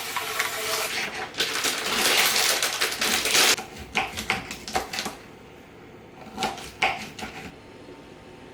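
Kitchen food-preparation sounds: rapid knife taps on a chopping board and utensils and dishes clattering, thinning to a few separate knocks and clicks after about three and a half seconds.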